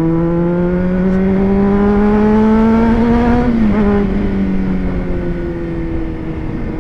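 Honda CBR600RR's inline-four engine under throttle, its note climbing steadily for about three and a half seconds, then dropping as the rider eases off and falling slowly.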